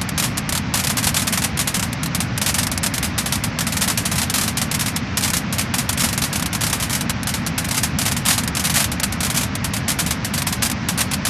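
Wood-burning fire crackling and popping, with a rapid stream of small snaps over a steady low rumble of the flames.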